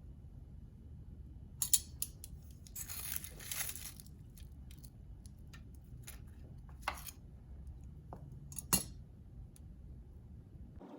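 Kitchen handling sounds: a few sharp clicks and clatters of utensils or dishes, with a brief rustle, over a low steady hum.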